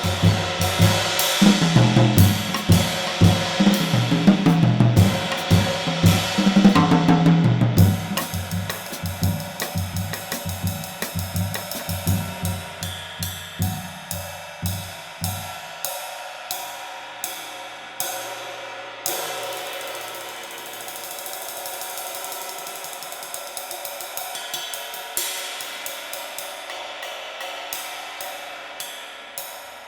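Kamin 20-inch V-Klasse medium light ride cymbal, hand-made from B20 bronze, played with sticks in a steady groove. For about the first half the rest of the drum kit plays along; then the drums stop and the ride is heard alone, struck in an even pattern with its wash ringing between strokes.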